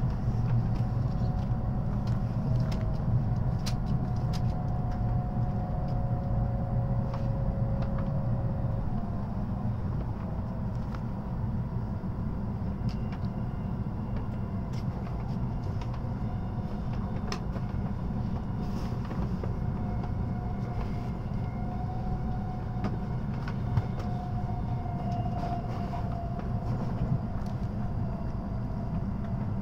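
Cabin running noise of an N700S Shinkansen heard inside a Green car: a steady low rumble with faint whining tones, as the train runs in toward a station stop.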